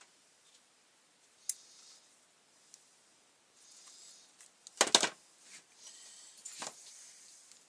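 Small clicks and rattles of hard parts being handled at a workbench, with a louder cluster of clattering knocks about five seconds in and a shorter one a little after.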